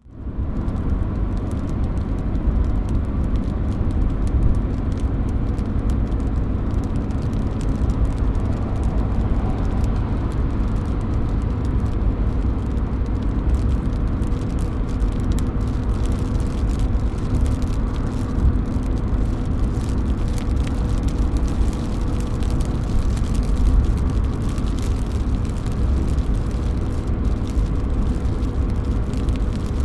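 Steady rain running and dripping off a roof edge, a constant hiss with fine scattered drip ticks over a heavy low rumble. The sound dips out for a moment right at the start, then runs on evenly.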